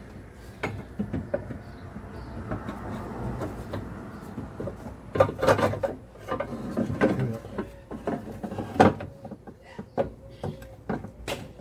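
Scattered clicks and clunks of tools and metal parts being handled during engine reassembly, with a few seconds of rustling noise in between.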